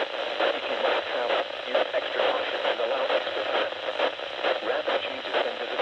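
Weather radio broadcast heard through a receiver, its sound cut off above the middle treble and covered in steady static hiss, with an indistinct voice underneath that cannot be made out.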